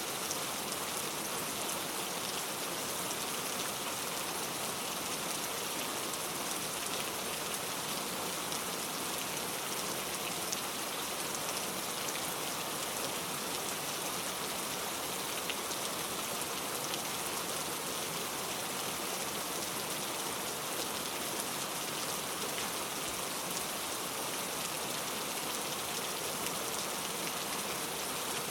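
Steady rain falling, a dense even patter with scattered drop ticks and no thunder.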